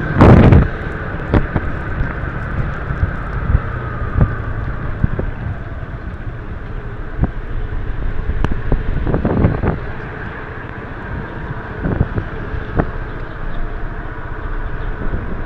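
Motorbike running on the road with wind buffeting the microphone, a steady rumble, with a loud knock just after the start and a few lighter knocks later.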